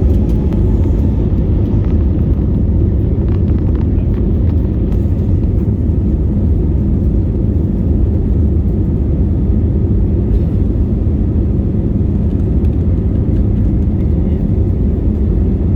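Passenger plane taking off, a steady, heavy low rumble of engines and aircraft that holds an even level.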